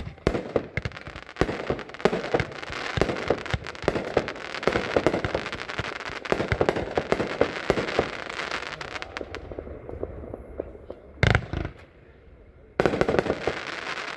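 A 31-shot Midnight Rider firework cake firing: a dense rattle of crackling and popping reports for about ten seconds that then dies down. A single loud report follows, then another dense burst of crackling near the end.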